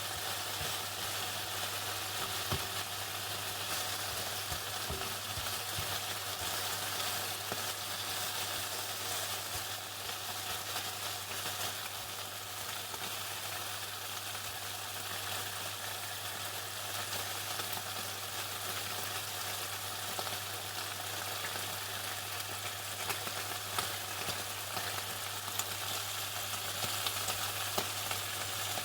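Chicken frying in hot oil: a steady crackling sizzle, with a steady low hum underneath.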